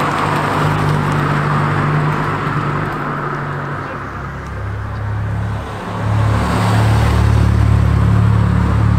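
Modified cars driving slowly past one after another, their engines humming steadily. About six seconds in a lower, louder engine note comes in as a Ford Fiesta hatchback pulls away.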